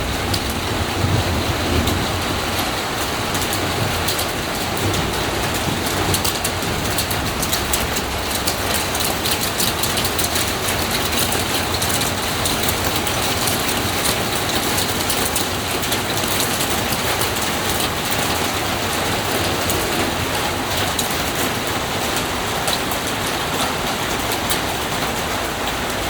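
Heavy rain falling steadily, with many sharp drop hits close by. A low thunder rumble dies away in the first couple of seconds.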